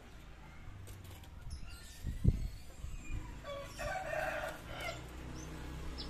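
A single dull thump about two seconds in, then a bird call lasting about a second and a half.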